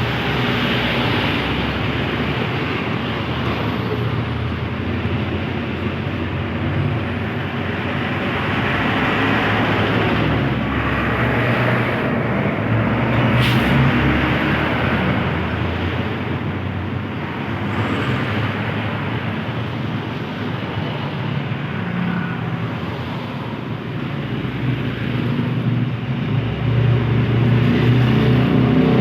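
Highway traffic with trucks and cars passing, their engines and tyres making a steady rumble. There is a brief sharp sound about halfway through, and a vehicle draws closer and louder near the end.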